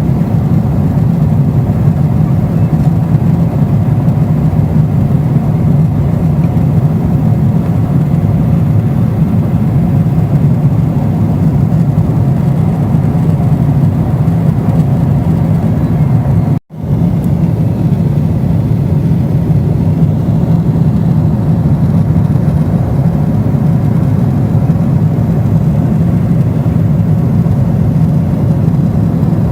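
Airliner cabin noise: the steady, low rumble of the jet engines and airflow heard from a window seat in flight. It drops out for an instant about halfway through, then resumes unchanged.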